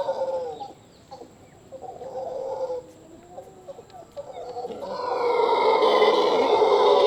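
Golden-mantled howler monkeys howling their territorial calls, several drawn-out pitched calls overlapping. The calling dies down about a second in, carries on more weakly, then swells loud again about five seconds in.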